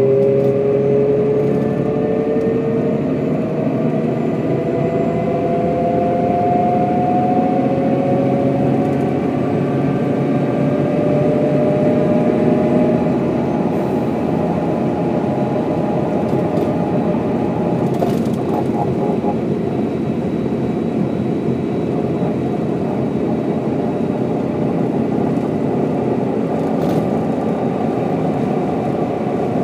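Mercedes-Benz O407 bus's diesel engine and drivetrain under way, heard from inside the passenger compartment. A whine rises steadily in pitch over the first ten seconds or so as the bus accelerates, then settles into a steady cruising drone.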